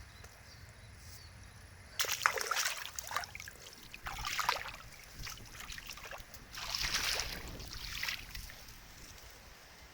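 Water splashing and sloshing in three bursts: a longer one about two seconds in, a short one near four seconds, and another from about six and a half to eight seconds.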